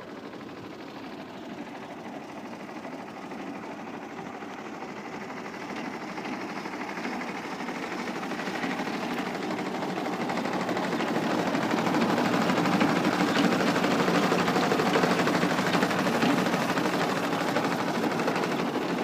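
Al-Ghazi farm tractor's diesel engine running, growing steadily louder over the first twelve seconds and then holding steady.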